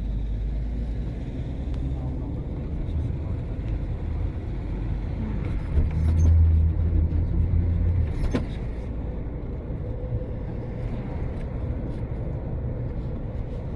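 Car driving: a steady low engine and road rumble that swells louder for a couple of seconds about halfway through, with a single sharp click soon after.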